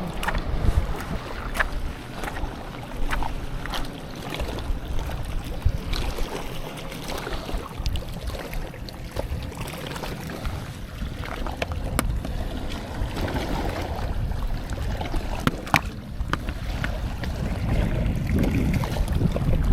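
Wind rumbling on the microphone over surf washing on a sandy beach, with small sharp clicks now and then.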